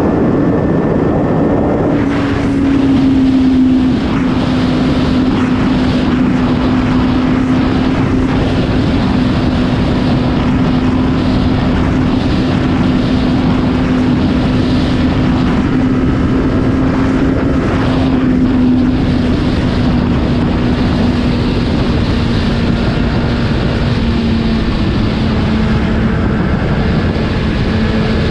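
Superbike with an Akrapovič exhaust running at steady speed, its engine holding one even note that sags very slightly, under a thick rush of wind and road noise.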